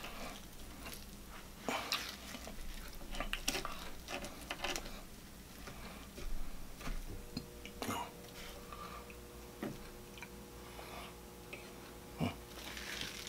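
Close-miked chewing and wet mouth sounds of a person eating, with scattered light clicks and taps.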